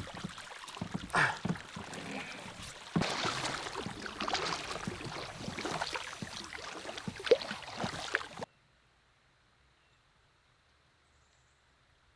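Heavy rain and canoe paddle strokes splashing in the water, a dense crackling hiss with scattered splashes. The sound cuts off abruptly about eight and a half seconds in, leaving near silence.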